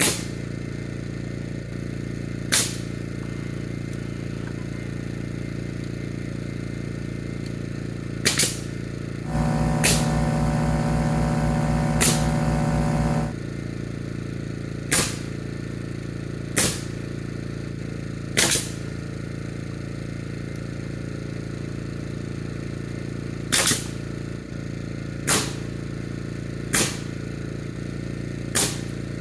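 Framing nail gun shooting nails into 2x4 roof framing, about a dozen sharp shots at irregular intervals over a steady hum. For about four seconds near the middle, a motor runs with a buzzing drone.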